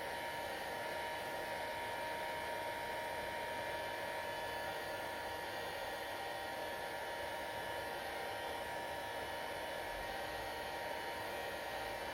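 Electric hair dryer running steadily: an even blowing hiss with a faint steady whine near 1 kHz.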